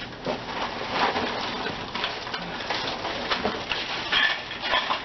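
Cardboard and plastic packaging rustling and crinkling while items are lifted out of a box, with light knocks and clatters throughout.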